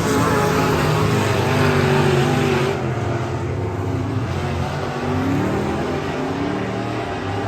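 Race car engine running hard on track, its pitch falling as the throttle comes off, duller for a second or so, then climbing again as it gets back on the gas.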